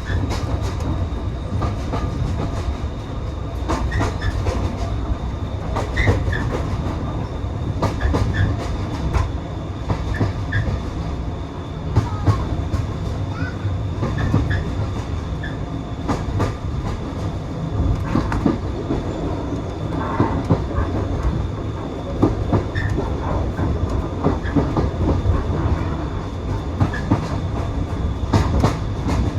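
Passenger railway carriage running along the line, heard from on board: a steady low rumble with scattered sharp clicks from the wheels over the track.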